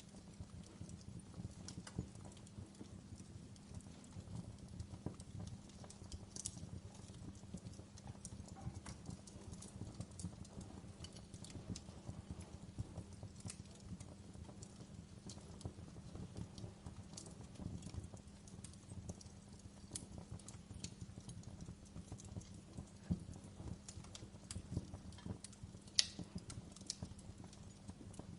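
Fire crackling: irregular sharp pops and snaps over a steady low rumble, with one louder pop near the end.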